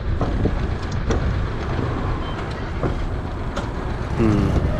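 Scag Windstorm stand-on leaf blower running steadily while its newly replaced nozzle-turning motor is tried out, with a few sharp clicks and knocks over the steady rumble.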